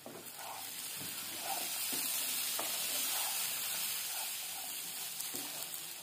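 Jackfruit seed fry sizzling in a nonstick kadai while a wooden spatula stirs and scrapes it, with a few light knocks of the spatula against the pan. The sizzle gets louder about a second and a half in.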